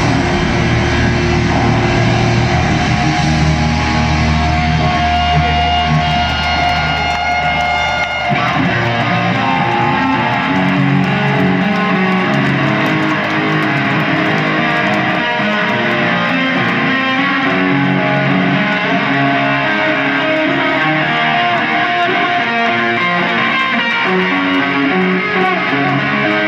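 Electric guitar playing in a live rock band, with a deep bass line under it for the first eight seconds or so; the bass then drops out and the guitar carries on with a steady picked figure.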